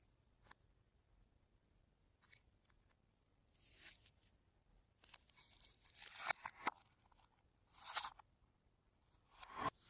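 Slime with mixed-in bits being handled and squeezed: short crackling, crunching noises in a few scattered bursts, with quiet gaps between.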